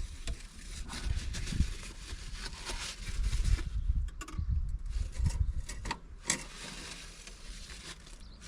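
Irregular rubbing and scraping with a few sharp clicks over a low rumble: hands working around the van's oil filler, wiping up spilled engine oil.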